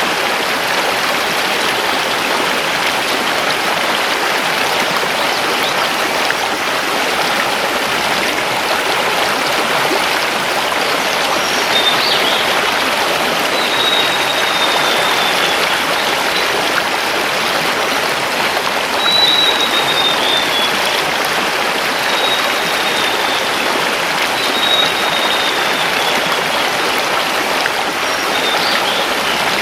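Mountain river rushing steadily over stones. From about twelve seconds in, a forest bird gives short, high, falling whistles every two or three seconds.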